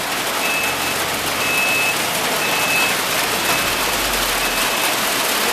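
Rain with a little hail falling, a steady hiss. Through it a vehicle's reversing beeper sounds a short high beep about once a second, over a low engine rumble.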